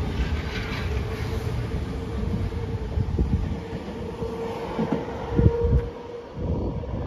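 RER B commuter train running on the tracks below a footbridge: a steady rumble of wheels on rail with a constant hum, easing off about six seconds in. A few sharp knocks come shortly before the rumble drops.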